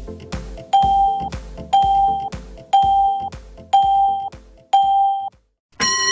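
Electronic background music with a steady bass beat, overlaid by five loud identical beeps one second apart, like a countdown timer. After a short gap near the end, a longer, buzzier tone starts.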